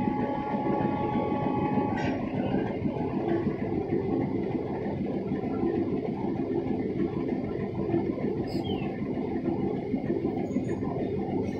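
Passenger train rolling slowly through a station, heard from aboard: a steady rumble and clatter of the carriages' wheels on the track. A steady high tone over it stops about two seconds in.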